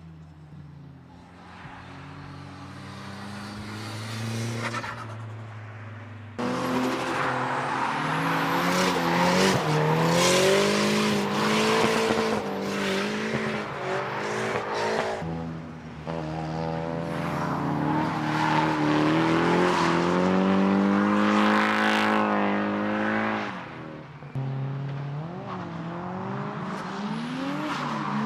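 Retro race cars on a circuit: engines revving up and falling back through the gears as they pass, with some tyre squeal. The first few seconds build as a car approaches, and the sound jumps abruptly three times where clips are cut together.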